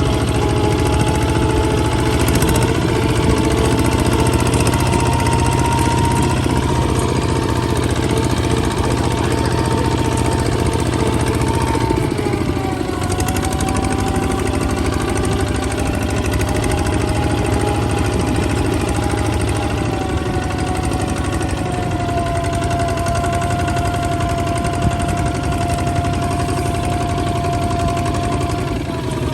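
Tractor's Kubota ZT155 single-cylinder diesel engine running steadily, its pitch dropping a little about twelve seconds in, again about nine seconds later, and once more at the very end.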